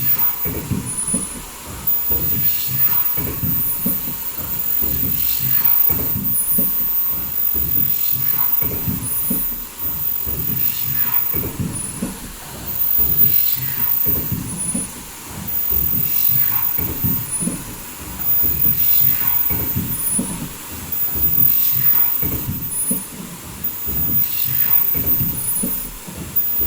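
Automatic foldable N95 mask production line with valve welding running, its noise swelling and falling in a repeating cycle about every two seconds with clicks at each stroke. Short high-pitched tones recur throughout.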